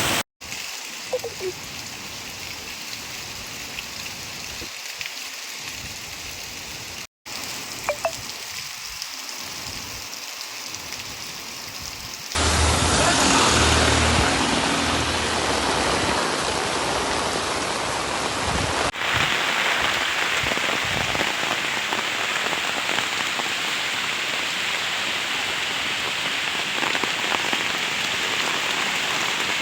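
Heavy rain falling as a steady hiss, in several joined shots: the sound drops out briefly twice in the first eight seconds and is louder for about six seconds around the middle.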